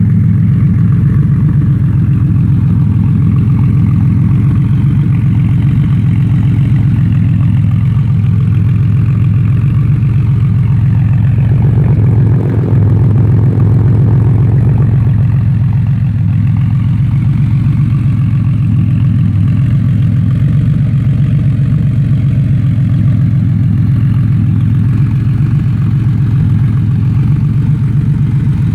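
1986 Porsche Carrera 3.2's air-cooled flat-six idling steadily and loudly through a Bisimoto exhaust with the silencer removed, almost a straight pipe.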